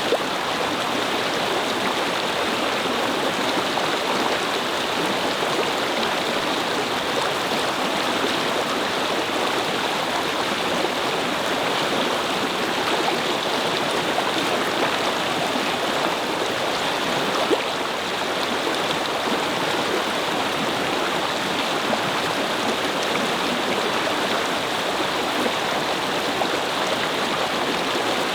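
A small brook flowing over stones: a steady babble of running water.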